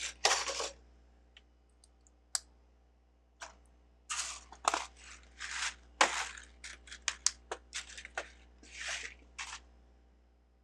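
Loose plastic Lego bricks clattering and clicking as hands rummage through and sort a pile of pieces, in several short bursts with quiet gaps between; it stops near the end.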